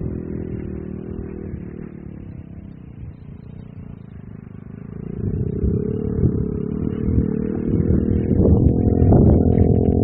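Off-road vehicle engine running on a dirt track. It fades away over the first four seconds, then comes back louder from about five seconds in, with throttle surges near the end.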